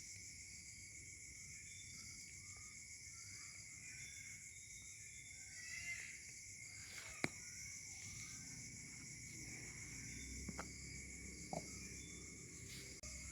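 Faint outdoor ambience of insects chirring steadily in several high, even bands, like a cricket chorus. A few small sharp clicks or taps break in, the sharpest about seven seconds in and two more between ten and twelve seconds.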